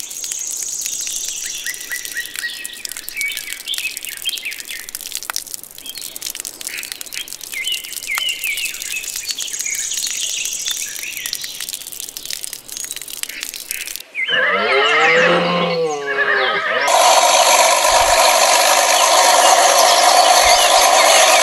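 Birds chirping and twittering for most of it. About fourteen seconds in there is a short animal call that wavers in pitch, and then, louder, a steady engine running.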